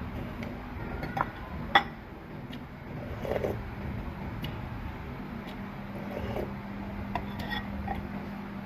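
Eating utensils clinking against a bowl of soup: a few sharp separate clinks, the loudest about two seconds in, over a steady low hum.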